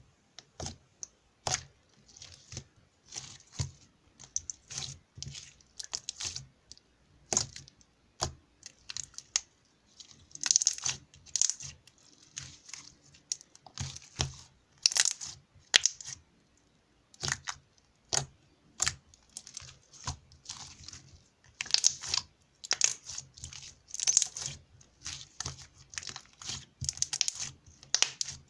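Slime being squeezed, poked and folded by hand, giving irregular clicks and short crackling pops.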